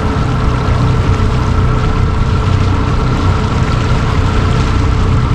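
A motorboat's engine running at a steady note while the boat cruises under way, with the rush of water and wind over it.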